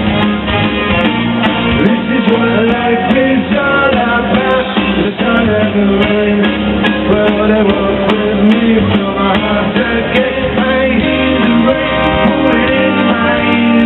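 Live rock band playing, with guitar, bass and drums keeping a steady beat, in an instrumental passage without clear lead vocals. The sound is dull, with no high treble.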